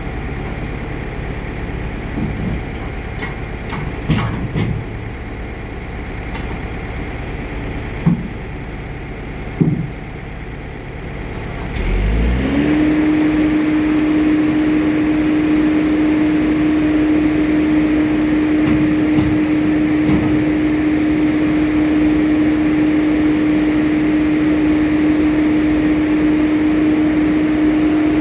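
Diesel engine of a Bomag vibratory roller running with a few knocks and clunks. About twelve seconds in it revs up with a rising whine and then holds a loud, steady high-revving drone, as the roller is worked hard to climb onto the truck.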